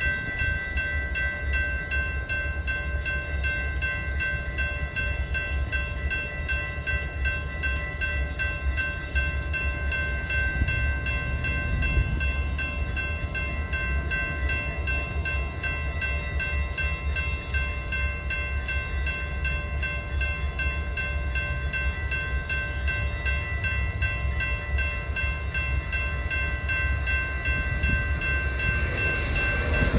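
Train running, a steady low rumble with a high whine of several held tones over it; it grows louder and rougher at the very end.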